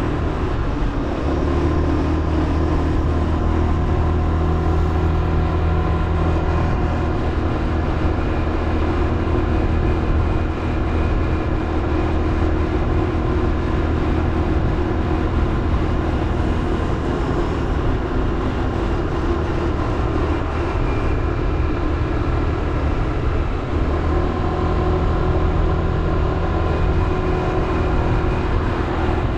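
Motorbike engine running steadily under way, heard from the bike itself, with wind and road noise. The engine's low hum is stronger for the first several seconds and again near the end.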